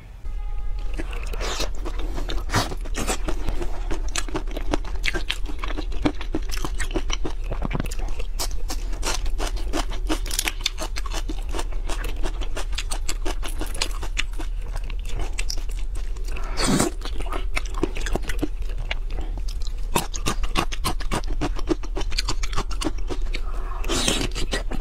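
Close-miked mouth sounds of eating spicy marinated shrimp: wet chewing, sucking and lip smacks with many small crunches and clicks, going on without a break.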